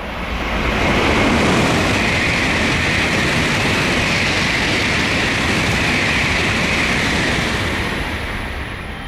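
Tokaido Shinkansen bullet train passing through the station at high speed: a loud rush of air and wheels that swells within the first second, holds steady for about seven seconds and fades near the end.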